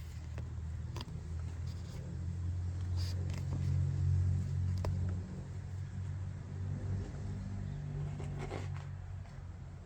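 A low steady rumble, loudest a few seconds in, with scattered small clicks and smacks of cats chewing and lapping wet food in sauce.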